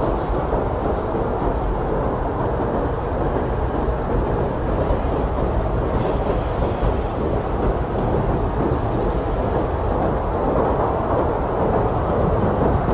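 Strong blizzard wind blowing steadily as a deep, low rumbling noise, with no gusts standing out.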